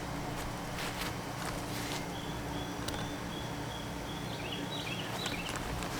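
Outdoor garden ambience: a steady low hum with scattered light clicks, and a few faint bird chirps near the end.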